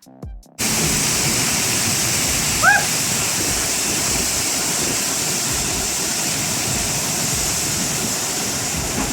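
A load of rocks pouring out of a tipped dump truck bed: a steady rushing noise that starts suddenly about half a second in, with a brief squeal near three seconds.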